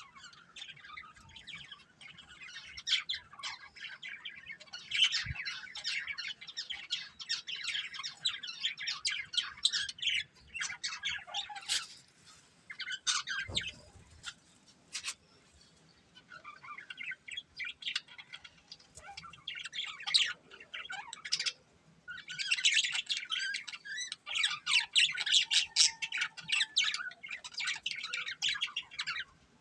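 A pair of budgerigars chirping and chattering in quick, busy bursts, falling quiet for a few seconds near the middle and then chattering harder again.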